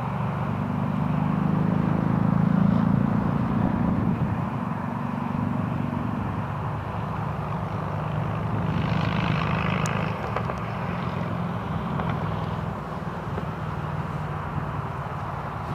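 An engine running steadily with a low hum. It swells over the first few seconds and then eases, and a brief higher hiss rises around the middle.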